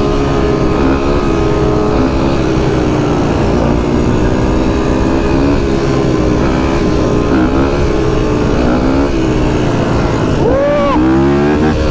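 Vehicle engine running steadily under way, its pitch wavering up and down with the throttle, over rushing noise. Near the end there is a short rising-and-falling tone.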